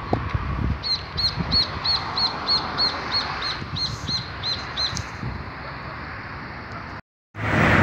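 A bird calling one short note over and over, about three times a second for some four seconds, over a steady outdoor rumble. Near the end the sound cuts out briefly and street traffic starts.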